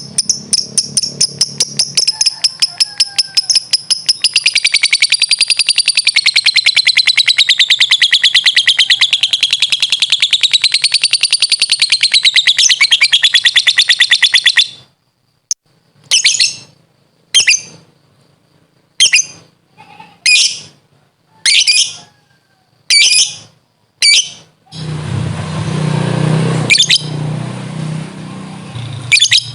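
Lovebird ngekek: a long, fast rattling chatter of rapid repeated notes that waver up and down in pitch, breaking off about 15 s in. It is followed by a string of short single calls about one a second, and near the end a duller noise with a low hum comes in under a couple more calls.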